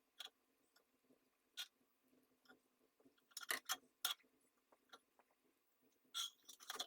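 Sparse light clicks and taps with short scraping sounds from hand tools and small parts being handled at a workbench. The loudest are a quick cluster of clicks about halfway through and a longer scratchy scrape near the end.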